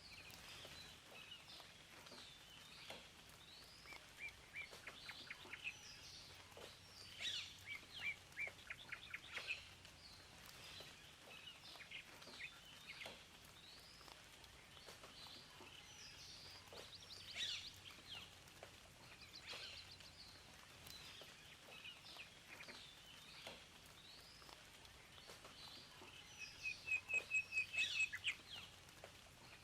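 Several songbirds chirping and singing over a faint steady background hiss, in short whistled phrases and runs of repeated notes. Near the end one bird gives a fast, loud series of repeated notes.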